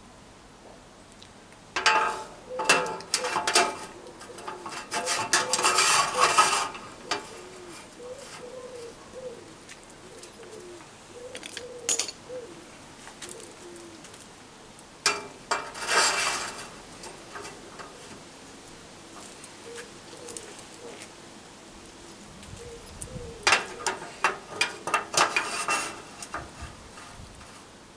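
Three bursts of metal clattering and clanking: the first, about two seconds in, is the longest, another comes in the middle and the last near the end. A pigeon coos softly in the gaps.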